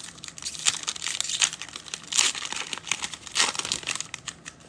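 Trading-card pack wrapper being crinkled and torn open by hand, in irregular sharp rustles and rips.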